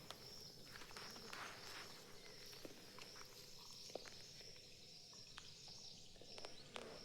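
Near silence: faint outdoor ambience with a steady high-pitched insect-like hum and a few scattered small clicks.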